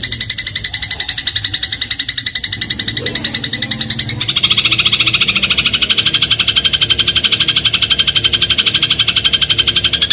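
Eurasian tree sparrow (burung gereja) calling in a long, rapid run of evenly repeated high chirps, shifting to a slightly lower pitch about four seconds in.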